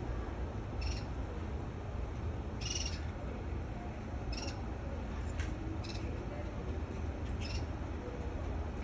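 Canary giving short, scattered chirps, about six of them, the longest about three seconds in, over a steady low background rumble.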